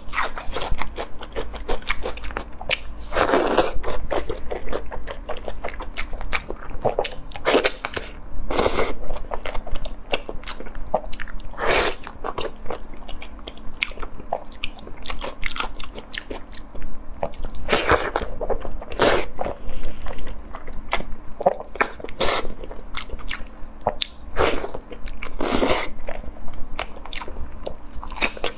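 Close-miked biting and chewing of braised beef tendon: continual mouth sounds, with a louder bite every few seconds.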